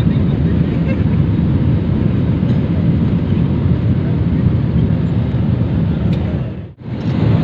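Airliner cabin noise: a loud, steady rumble of the jet engines and rushing air, heaviest in the low end. It drops out for an instant near the end and comes straight back.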